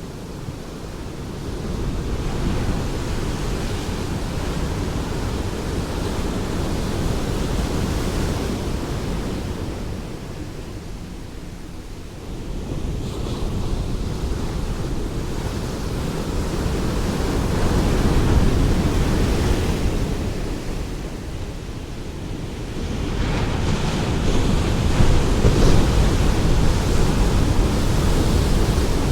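Ocean waves breaking and washing on a shore, the surf swelling and easing in slow surges several seconds apart.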